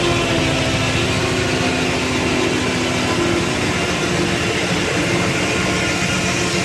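Steam-powered sawmill running, driven by a 1926 Keck Gonnerman steam traction engine: a loud, steady mechanical noise with a few held, slightly wavering hums.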